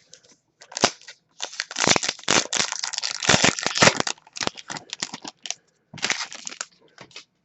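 Foil wrapper of a 2018-19 Upper Deck Trilogy hockey card pack being torn open and crinkled by hand: a dense run of crackling that starts about a second and a half in, then breaks into shorter scattered crinkles.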